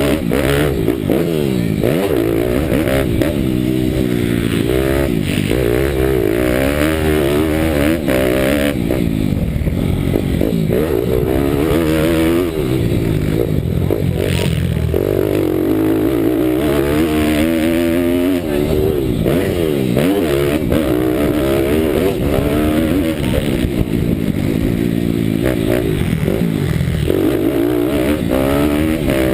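A Bucci Moto pitbike's 190 cc Daytona Anima single-cylinder four-stroke engine under hard riding, heard from on board. Its pitch climbs and drops over and over as it revs out and shifts or backs off, every few seconds.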